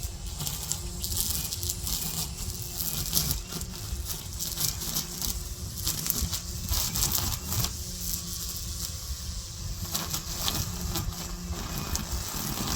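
Gas string trimmer engine running, its hum easing and returning every few seconds, with a dense irregular crackling patter over it.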